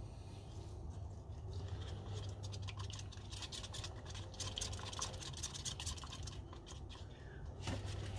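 A stirring stick scraping round a small cup as fibreglass resin and hardener are mixed: a quick run of scratchy strokes, thickest in the middle, over a steady low hum.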